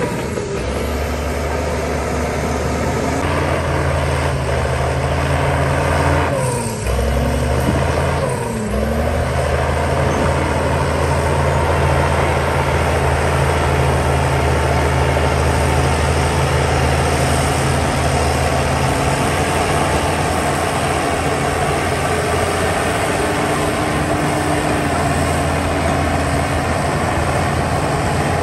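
A heavy diesel engine runs steadily under load. Its pitch briefly drops and comes back up twice, about 7 and 9 seconds in.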